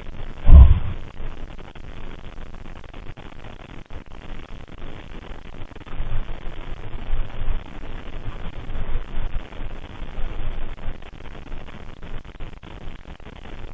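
A single heavy, dull thud about half a second in, then a stretch of softer, irregular low thumps and rumbling, over steady recording hiss.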